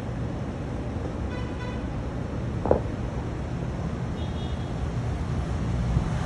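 Steady low rumble of road traffic, with a short soft knock near the middle and two brief faint flat tones, one early and one later.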